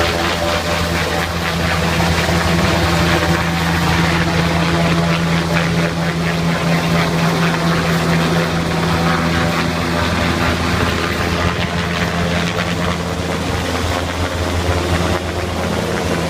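Irish Coast Guard Sikorsky S-92 search-and-rescue helicopter departing, its turbines and main rotor running with a loud, steady low drone.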